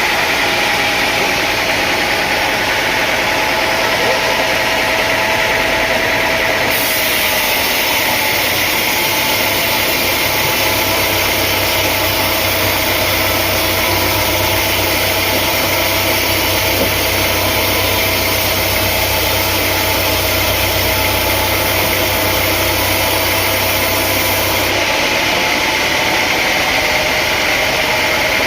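An engine running steadily. About seven seconds in the sound changes abruptly, with a louder hiss and a low hum, and it switches back near the end.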